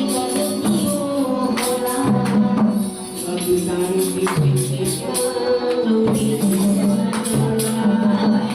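Kirtan: devotional group singing with long held notes, over steady jingling, clashing hand percussion.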